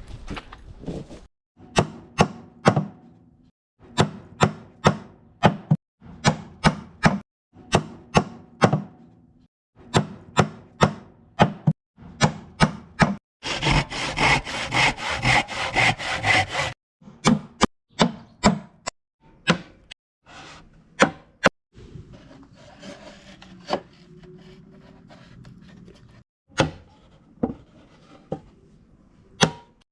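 Hammer blows on wood in quick runs of three to five strikes, broken by abrupt silent cuts between short clips. Around the middle, a few seconds of a saw cutting through timber. Quieter handling and scraping of wood near the end, with a few more single strikes.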